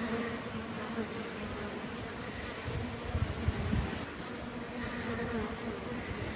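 A steady buzzing hum, with a few soft low thuds about three to four seconds in.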